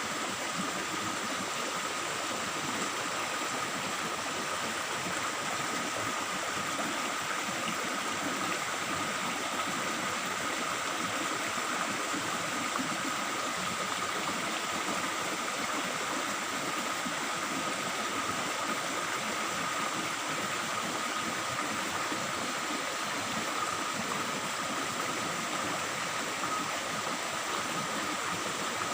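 Forest stream babbling steadily over rocks, with a faint steady high whine underneath.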